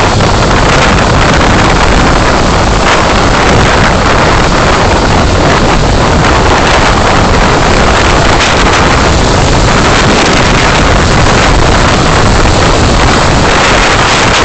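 Loud, steady road and wind noise of a moving car, picked up by a dash camera's microphone.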